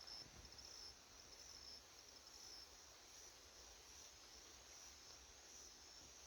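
Faint chirping of crickets: short high trills repeating about every half second, over a low background rumble.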